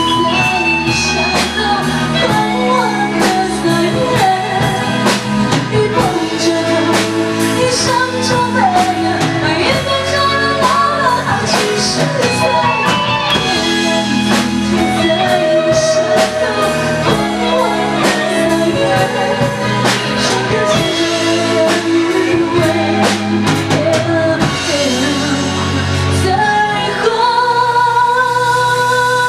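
Live rock band playing, with drum kit, guitar and sung vocals. Near the end the drumming thins out and held chords carry on.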